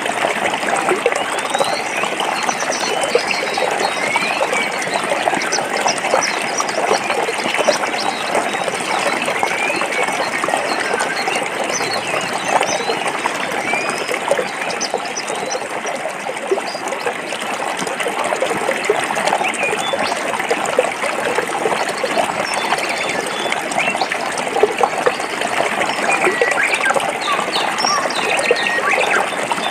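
A forest stream flowing and splashing over rocks: a steady, even rush of water, with many small bubbling splashes and trickles through it.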